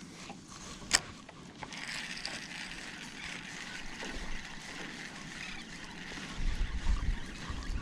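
Steady hiss of water and wind on open water, with one sharp click about a second in and a low rumble setting in near the end.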